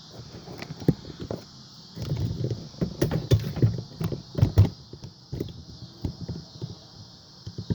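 Irregular knocks and clanks of metal parts being handled and worked loose while an ice maker is taken apart for scrap. The knocks come thickest and loudest between about two and five seconds in.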